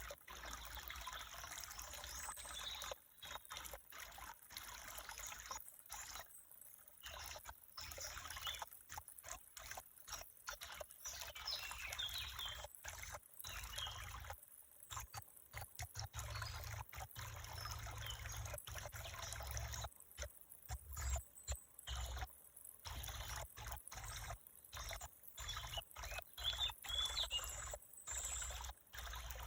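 Water trickling, as of a small stream, broken by many brief gaps.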